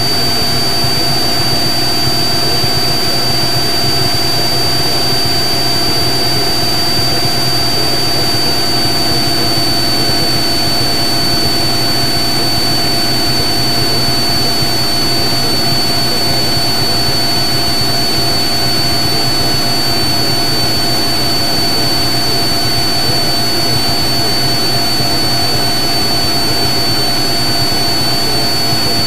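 Steady drone of a Cessna 182 Skylane's piston engine and propeller in the climb, heard in the cockpit, with a thin steady high whine over it.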